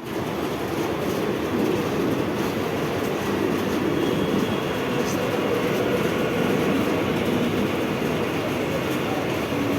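Mumbai Western Line EMU local train running past at speed: steady rumble of wheels on rail with some clatter, starting suddenly and holding level.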